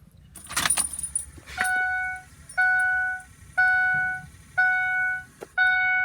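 Keys jangle as the ignition key is turned on. Then the 2006 Ford E-450's dashboard warning chime sounds: a steady electronic tone repeating about once a second, five times.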